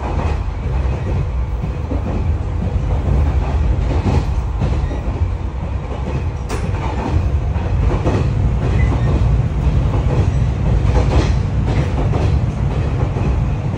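Inside a JNR-era electric multiple unit rolling along: steady low wheel-and-rail rumble with clacks over the rail joints and one sharp click about six and a half seconds in. The train is coasting through the AC/DC dead section with traction power cut, and the cabin lights come back on as it leaves.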